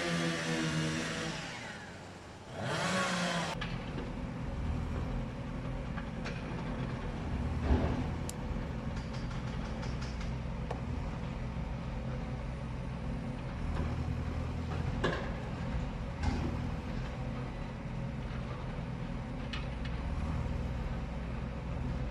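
A vehicle engine revs up twice at the start, then runs steadily at a low, even pitch. A few short knocks sound over it now and then.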